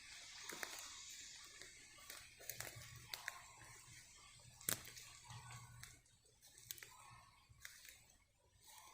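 Faint footsteps on a wet forest floor: scattered, irregular crackles of leaves and twigs, with one sharper snap about halfway through.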